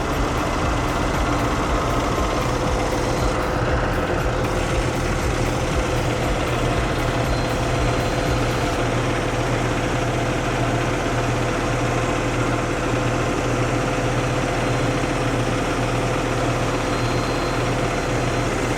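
Cummins X15 diesel engine of a grapple roll-off truck idling steadily with the PTO engaged to drive the hydraulics.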